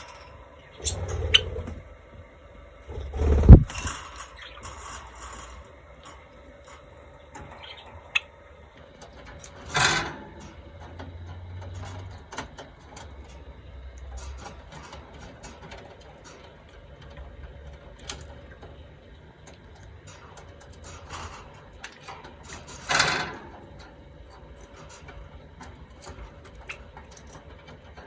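Small cage birds (Java sparrows, budgerigars, Gouldian finches) moving about their cage: scattered light clicks and taps. A few louder knocks stand out, the loudest a low thud about three and a half seconds in.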